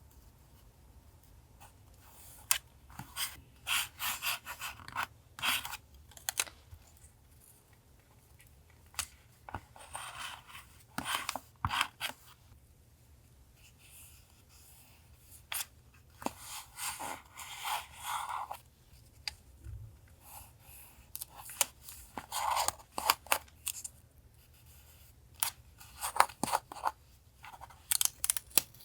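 Paper crafting at a desk: scissors snipping through paper and paper being handled and pressed down, in irregular short bursts with quiet gaps between.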